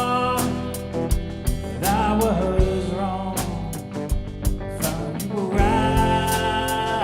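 Worship song music: drums keeping a steady beat under guitar, with a voice holding long notes that slide between pitches.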